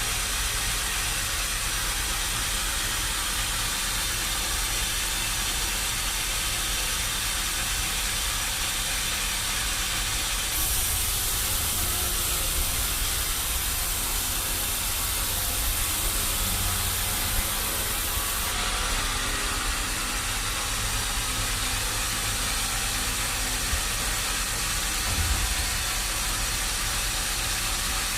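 Sawmill machinery running with a steady engine hum and hiss. A harsher, higher hiss joins from about ten seconds in and drops away about eight seconds later.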